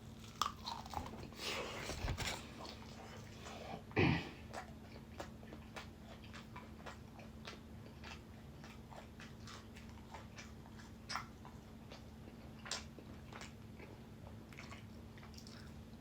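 A person biting and chewing a chicken wing close to the microphone: many small crunches and wet clicks, with a louder bite about four seconds in.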